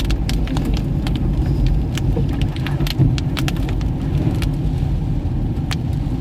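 Toyota Fortuner driving at a steady pace, its engine and tyre rumble steady and low, with scattered sharp ticks of raindrops hitting the car.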